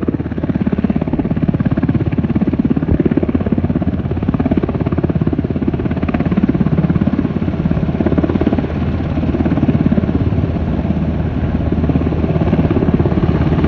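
Firefighting helicopter's rotor beating steadily in a fast chop over a low engine drone, loud throughout.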